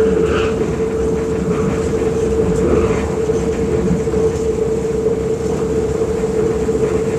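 A moving passenger train heard from inside the carriage: steady running rumble with a constant humming tone.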